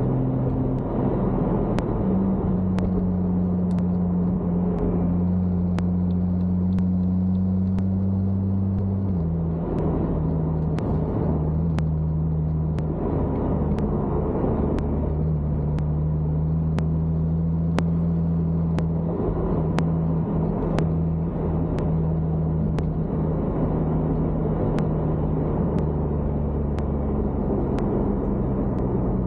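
BMW N55 turbocharged inline-six engine and tyre noise from inside the car's cabin while cruising in sixth gear: a steady low hum whose pitch steps up about two seconds in, drops about nine seconds in, then drifts slightly.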